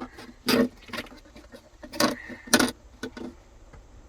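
Several short clicks, knocks and rustles of plastic parts being handled and pushed into place, with a brief squeak near the middle.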